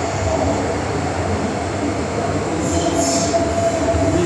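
MTR M-Train electric multiple unit running underground, heard from inside the car: a steady rumble of wheels on track with a constant whine, and a brief high hiss about three seconds in.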